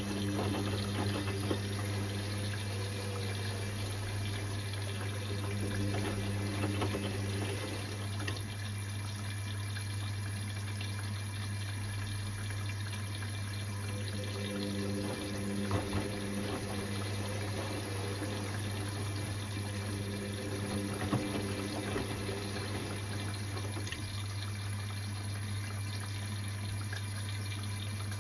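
Indesit IWC6165 washing machine during its wash cycle: water runs into or through the machine with a steady low hum underneath. Fainter higher whining tones come and go, about fifteen seconds in for several seconds.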